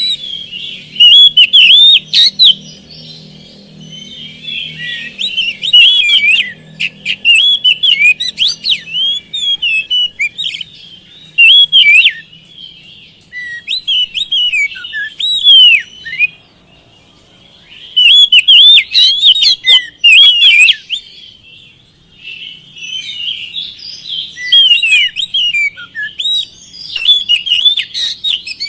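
Oriental magpie-robin (kacer) singing a fast, varied song of whistles and chirps. It comes in loud stretches with short lulls between them.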